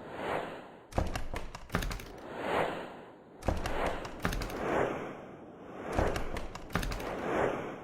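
Dog digging in sand: repeated bursts of quick scratching clicks from the paws, each followed by a rushing swell of sand, coming round about every two and a half seconds.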